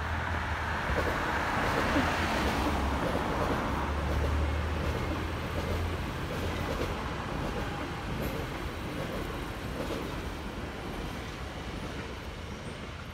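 Electric regional train running past on the embankment: a steady rumble of wheels on rails that is loudest in the first few seconds and slowly fades.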